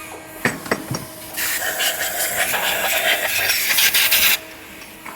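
A few sharp knocks, then a loud hiss lasting about three seconds that cuts off suddenly, over a steady machine hum on a factory assembly line.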